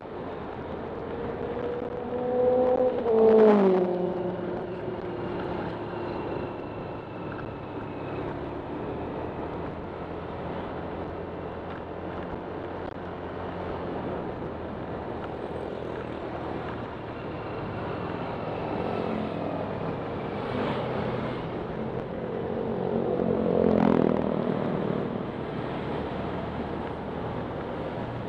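Honda Click 125 scooter's single-cylinder engine running steadily under wind and road noise on a ride. Two other vehicles pass, about three seconds in and near the end, each louder for a moment, with its pitch dropping as it goes by.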